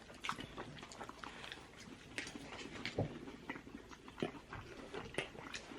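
Faint, scattered eating sounds: light chewing, small clicks and crackles of food and wrappers, with no voice.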